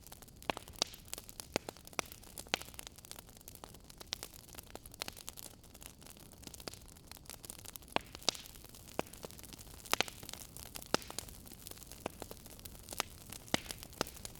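Wood fire crackling in a fireplace: a steady low hiss under sharp, irregular pops and snaps, several a second.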